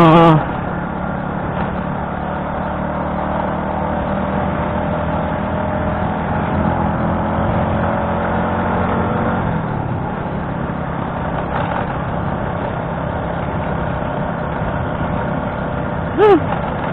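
Motorcycle engine running under way with wind rushing past the camera; its pitch falls about nine to ten seconds in as the throttle eases off.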